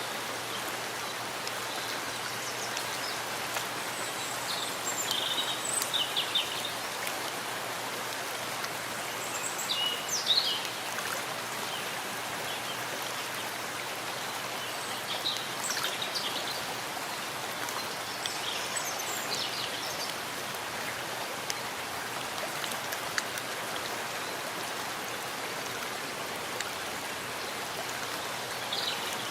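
Steady rain falling in a forest, an even hiss of drops with trickling water. Short high bird chirps come through it a handful of times.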